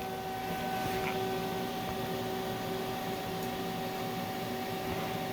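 Steady electrical hum with a fan-like whir and hiss, unchanging throughout, typical of idling shop equipment; no welding arc is heard.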